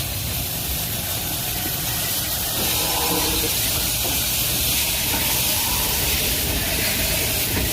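Steam locomotive letting off steam: a steady loud hiss over a low rumble.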